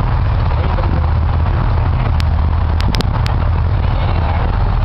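A car engine running with a steady low rumble. A few sharp clicks come in the middle.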